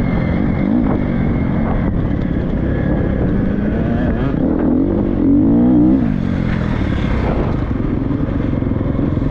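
Motocross bike engine running and revving, its pitch rising and falling, with a louder rev about five and a half seconds in.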